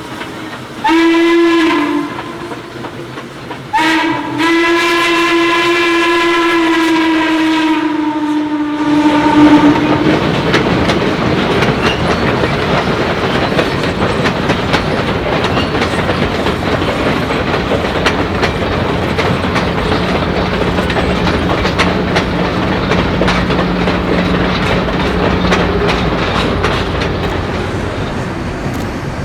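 Chesapeake & Ohio 1309's steam whistle blowing a short blast about a second in, then a long blast from about four seconds that sags in pitch as it dies away near ten seconds. The train then passes close by with a steady rumble and clatter of wheels on rail.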